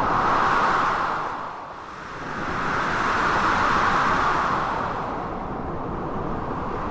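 Blizzard wind mixed with crashing sea waves: a steady rush of noise that swells up and eases off twice.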